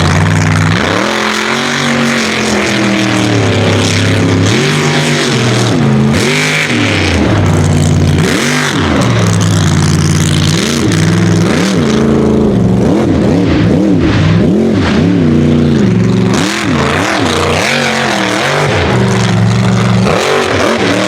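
Unlimited-class mega truck engine revving hard, its pitch climbing and dropping again and again in quick succession as the throttle is worked on and off.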